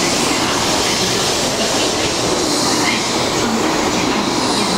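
Taiwan High Speed Rail 700T train at the station platform: a steady, loud rumble and hiss with no distinct knocks or changes.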